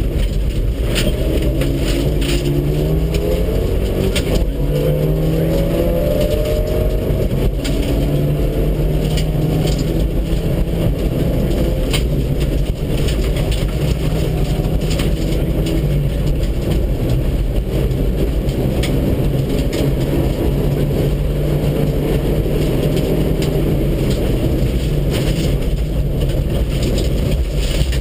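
Mitsubishi Lancer Evolution VII rally car's turbocharged four-cylinder engine pulling hard at speed, its pitch climbing in several sweeps through the gears, then held high. Sharp clicks and knocks come through now and then over the engine.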